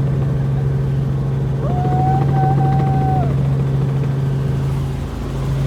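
Helicopter cabin noise: a loud, steady drone from the rotor and engine, with a single held high tone lasting about a second and a half in the middle.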